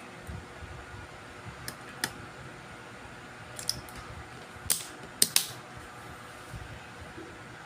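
Small tools and parts clicking and tapping on an electronics repair bench: about half a dozen sharp clicks, the loudest two close together about five seconds in, over a faint steady hum.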